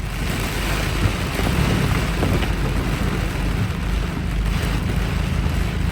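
Car driving in heavy rain: a steady hiss of rain and water spray on the car, starting suddenly, over the low rumble of the engine and road.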